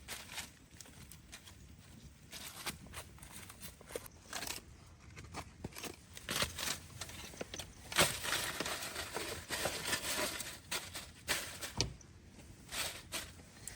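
Irregular rustling, crackling and sharp knocks, with the loudest sharp hit about eight seconds in.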